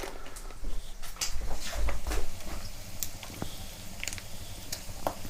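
Pieces of fatty, bacon-like pork belly frying in oil in a pan, with irregular spitting pops and crackles.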